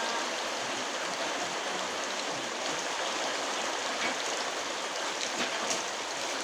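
Very heavy rain pouring down steadily, a dense even hiss with a few faint drop ticks.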